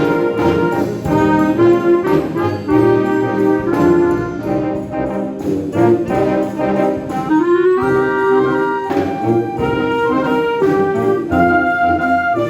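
Concert wind band playing a piece with the brass to the fore and a steady beat.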